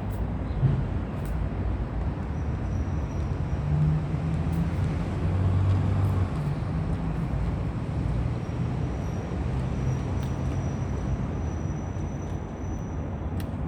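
Vehicle noise: a steady low engine and road rumble whose pitch shifts now and then, with a few faint clicks.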